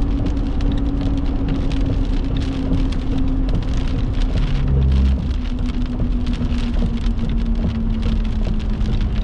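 Heavy rain pelting a surface, a dense patter of drops under a steady low hum. There is a brief low thump about halfway through.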